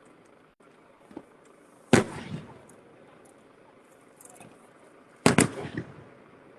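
Aerial firework shells bursting: two loud bangs about three and a half seconds apart, each followed by a short rumbling echo, with a small pop before the first and faint crackling between them.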